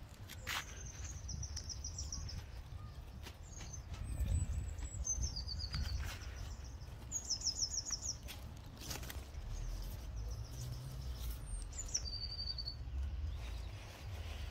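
Small birds chirping in short, high-pitched rapid trills, several times over, against a low rumble on the microphone and a few sharp clicks.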